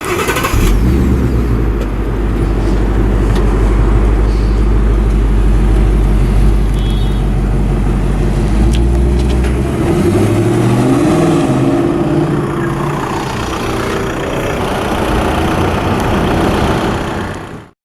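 2015 Ford Mustang GT's 5.0-litre V8 firing up with a sharp flare, then idling with a deep, steady rumble. From about ten seconds in the engine note changes, its pitch rising and falling.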